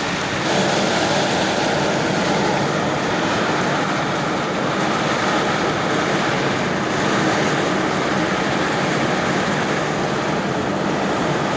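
Strong storm wind blowing as a steady, loud roar with no letup.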